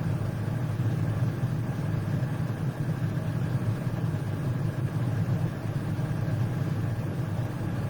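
A steady low mechanical hum, unchanging in level and pitch.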